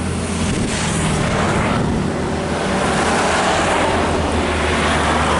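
Road traffic going by: the engines of trucks or buses hum steadily underneath, and tyre noise swells and fades as vehicles pass.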